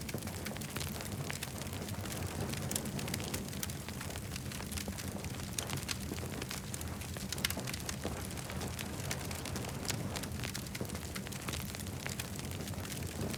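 Wood campfire crackling, with frequent irregular sharp pops and snaps over a steady low rush.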